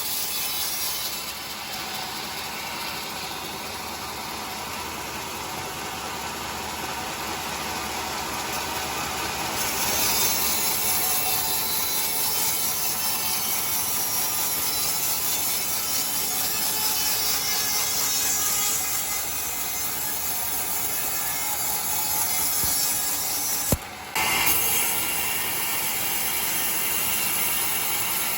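Sawmill saw running steadily through a log, growing louder about ten seconds in, with a brief break near the end.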